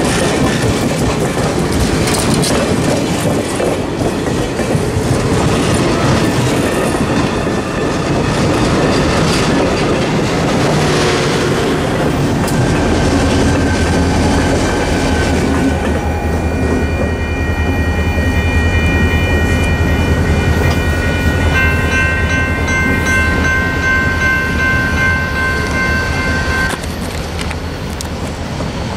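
Passenger train passing close by: coaches clattering over the rails, then a diesel locomotive rumbling past about halfway through with a strong, steady low engine note. Steady high ringing tones sound over it for the last third. Near the end the sound cuts to a quieter train further off.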